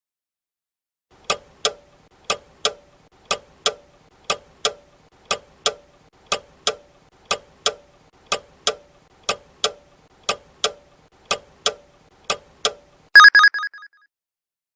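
Clock-ticking countdown timer sound effect: a tick-tock pair every second, twelve in all, then a brief ringing bell near the end that signals time is up.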